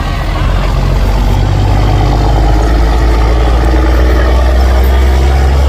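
Heavy truck-pull engine running steadily and loud, with a deep low drone.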